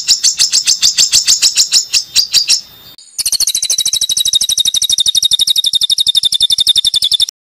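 A songbird singing harsh, rapid-fire 'tembakan' phrases: a fast series of sharp high notes, about ten a second, that breaks off, then after a short pause a faster, even trill that stops abruptly about a second before the end.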